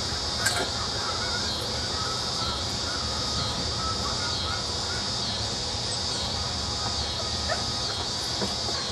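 German shepherd puppies giving small squeaks and whimpers, over a steady high-pitched drone that pulses about once a second.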